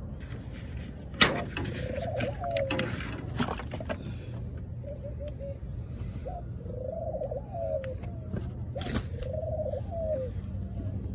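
Domestic pigeons cooing: three long, rising-and-falling coos with softer cooing between them. A sharp knock comes about a second in and another near the ninth second.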